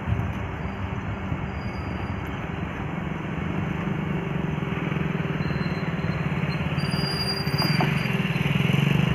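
Vande Bharat Express electric train-set approaching slowly, a steady hum and rail running noise growing louder as it draws near.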